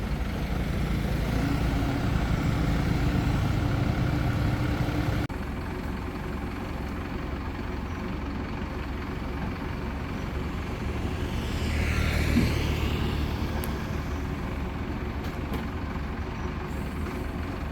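Crane engine running steadily with a low drone. It is louder for the first five seconds, drops abruptly about five seconds in, and swells briefly again near twelve seconds.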